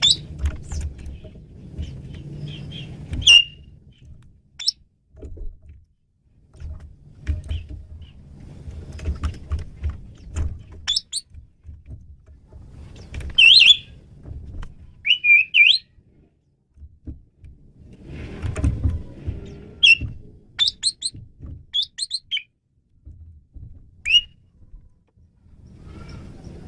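Asian pied starling (jalak suren) singing: a varied run of sharp whistles and chirps, some rising in pitch, coming in bursts with short pauses. A low rumbling noise runs under several of the bursts.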